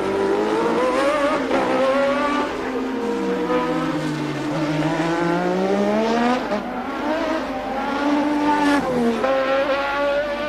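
A 1988 Formula One car's engine running at race pace, its pitch falling steadily, bottoming out about four and a half seconds in, then rising again, with a sharp drop and recovery near the end.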